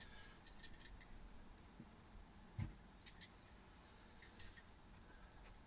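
Faint scattered clicks and snips of small objects being handled, as the adhesive-injection holes in the floor are plugged, with a few sharper ones in the middle.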